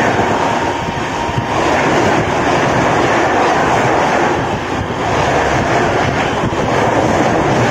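Passenger train coaches passing close by at speed: a loud, steady rush of wheel, rail and air noise.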